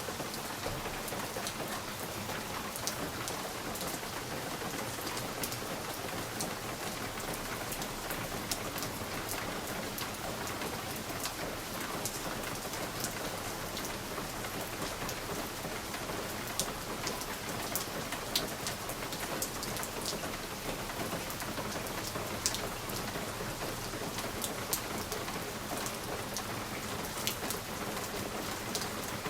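Steady rain with many individual drops tapping sharply against a window pane, scattered irregularly through a continuous hiss.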